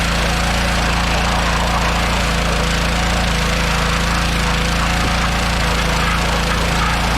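An engine running steadily at a constant speed, with an even hiss over it.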